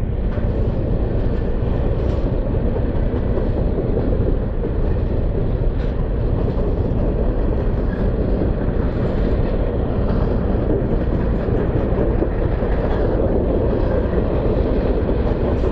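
Long train rolling past a railroad crossing at close range: a steady rumble of wheels on rails with a few faint clacks.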